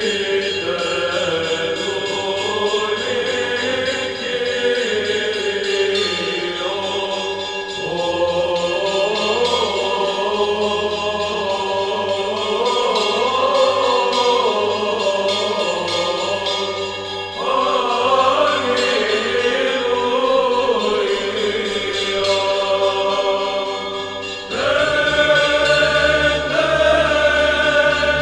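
Choir singing Byzantine chant: a melody moving over a steady held drone (ison), which shifts to a new, fuller held note near the end.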